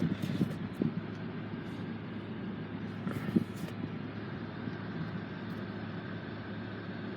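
Car running steadily, a low hum with a faint steady high tone over it, and a few short knocks in the first second and again about three seconds in.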